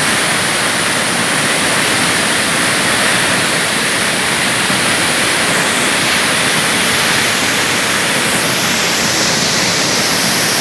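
Water of Iguaçu Falls pouring down: a steady, loud rushing.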